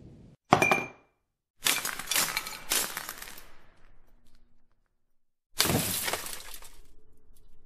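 Glass breaking sound effect: a sharp clink with a brief ring about half a second in, then a long shattering crash with pieces tinkling, and a second smash about five and a half seconds in that trails off.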